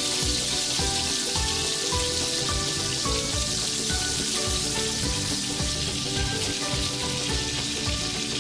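Hot oil sizzling steadily as tiny lentil pakoras (mini piyazu) deep-fry, under background music with a melody and a beat.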